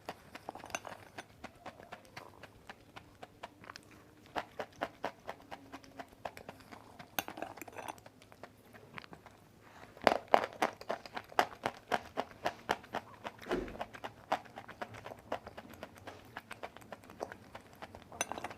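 Close-miked chewing of white clay, a rapid run of crisp crunching clicks that grows louder and denser about ten seconds in.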